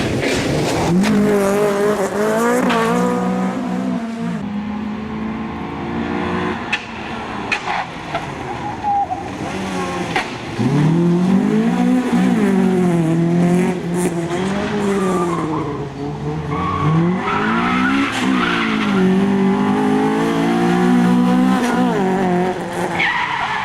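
Honda Civic rally car's engine revving hard, its pitch climbing and dropping again and again through gear changes and lifts, with tyres squealing at times.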